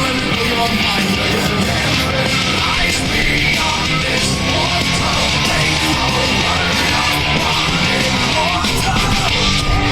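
Loud live rock music with electric guitar and a shouted, yelled vocal.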